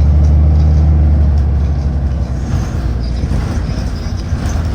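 City bus running, heard from inside the cabin: a steady low engine drone that eases off about halfway through, leaving a rougher road rumble.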